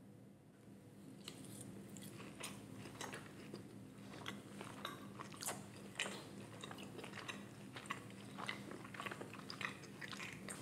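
A person chewing a bite of ribeye steak, close-miked for ASMR: irregular sharp mouth clicks and smacks starting about a second in, over a faint steady low hum.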